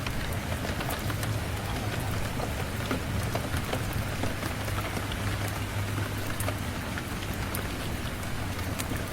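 Steady rain with a wood fire crackling in scattered small sharp pops, over a low steady rumble.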